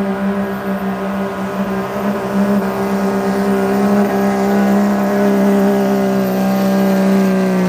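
Hot stock diesel pickup truck's engine at full throttle under load as it pulls the sled, holding a loud, steady high-revving note.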